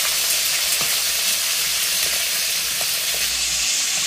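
Chicken pieces sizzling steadily as they fry in hot oil in an aluminium karahi, with a faint tick or two from the spattering fat. The hiss turns slightly duller a little after three seconds.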